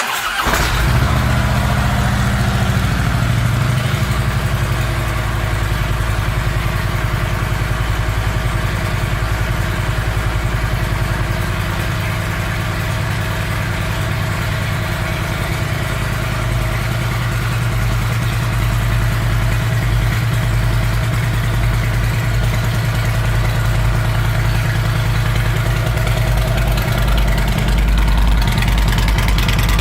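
Harley-Davidson Electra Glide Ultra Limited's V-twin engine, with Rinehart aftermarket exhaust pipes, starting up and settling into a steady idle.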